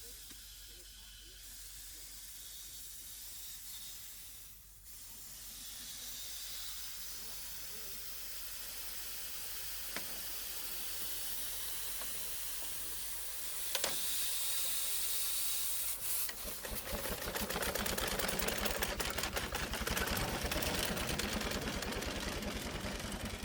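Steady hiss, then about two-thirds of the way through an engine starts running with fast, even firing pulses.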